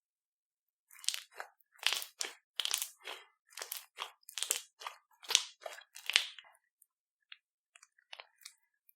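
Slime being squeezed and worked by hand, giving a run of crunchy crackles about two a second, then a few faint clicks near the end.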